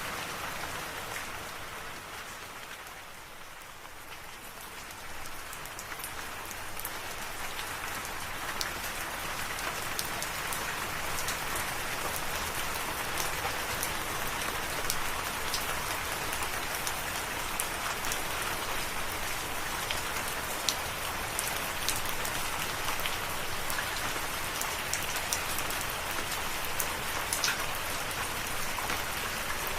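Steady rain falling, with many separate drops ticking through it. It softens briefly a couple of seconds in, then returns to an even level.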